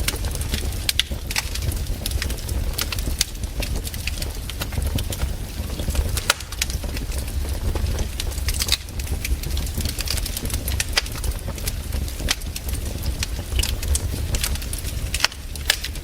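Campfire crackling, with sharp irregular pops over a steady low rumble.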